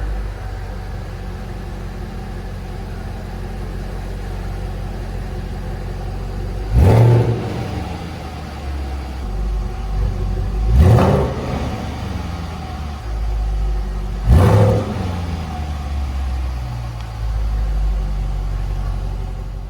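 Jaguar F-Pace SVR's supercharged 5.0-litre V8 idling just after a cold start, blipped three times with quick throttle revs that rise and drop straight back to idle: about a third of the way in, near the middle, and past two-thirds of the way through.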